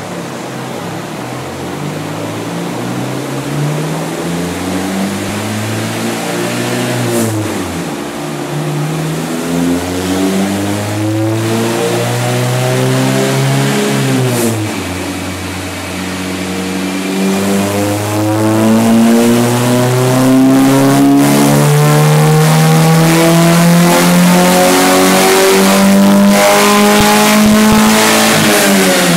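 Pontiac G5's 2.2-litre Ecotec L61 four-cylinder, breathing through aftermarket headers, a high-flow cat and a custom 2.5-inch exhaust, making a full-throttle pull on a chassis dyno. The revs climb and drop at two gear changes, about 7 and 14 seconds in. They then climb slowly and get louder through a long final gear, falling off as the throttle is released near the end.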